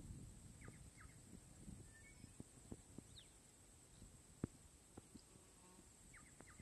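Near silence: faint outdoor ambience with a few soft, short bird chirps and occasional light clicks. The bull is not mooing.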